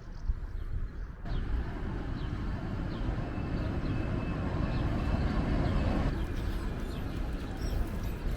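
Steady low rumbling running noise of a moving train, changing abruptly to a louder, denser rumble about a second in.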